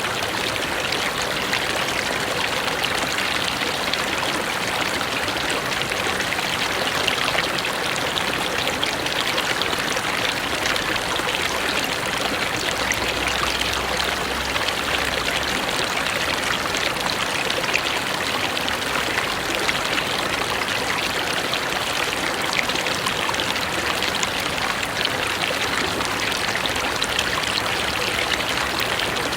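Mountain river flowing over rocks, a steady rushing and splashing of water.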